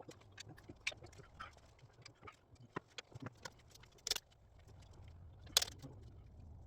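Irregular clicks and knocks of hand tools and parts being handled while an engine is taken apart, with two sharper knocks a little past the middle.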